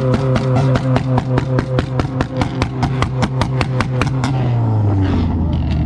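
Honda Civic's four-cylinder engine held against a rev limiter (a two-step launch limiter), its note steady with rapid cracks and pops about five times a second, then dropping back to idle near the end. It is really loud.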